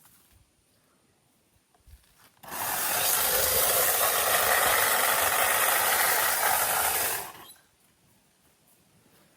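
Tree branches being cut back: about five seconds of loud, rough scraping and rustling of wood and leaves that starts suddenly about two seconds in and stops abruptly.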